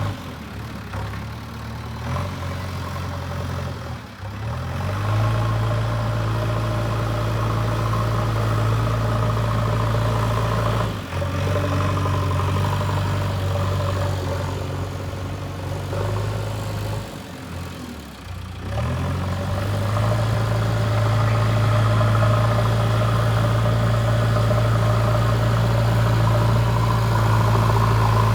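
JCB 3DX backhoe loader's diesel engine running steadily with a deep hum, as during dozing work. The engine note dips briefly a few times, about four, eleven and seventeen seconds in, then holds steadier and a little louder toward the end.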